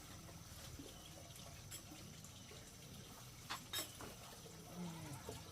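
Running water, a faint steady trickle, with two sharp clicks about three and a half seconds in.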